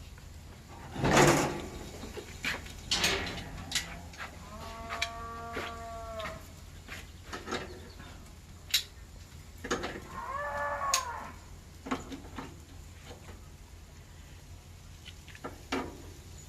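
A cow mooing twice: one long, even call and then a shorter one that falls in pitch at the end. Scattered sharp clicks and knocks come between the calls, the loudest a knock about a second in.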